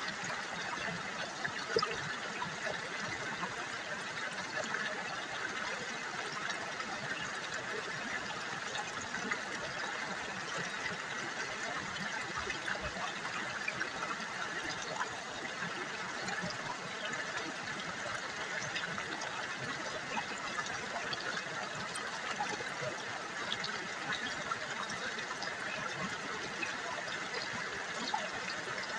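River water babbling and trickling steadily.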